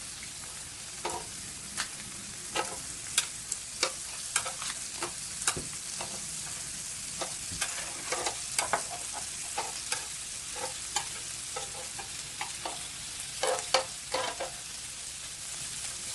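Grilling beef and shrimp sizzling with a steady hiss, broken by many short clicks and taps, a cluster of louder ones about three-quarters of the way through.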